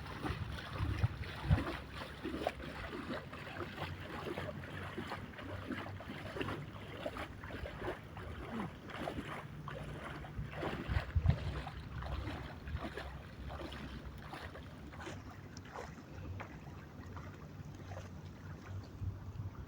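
Lake water splashing irregularly as a person wades and swims, with wind rumbling on the microphone.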